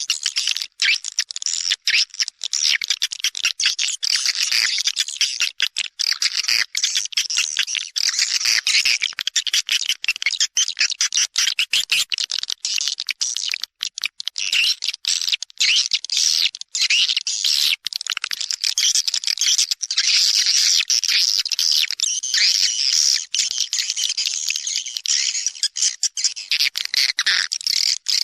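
Edible-nest swiftlets calling: a dense, unbroken stream of rapid, high chirps and twitters. It is a swiftlet lure-call recording of the kind played at swiftlet houses to draw the birds in to nest.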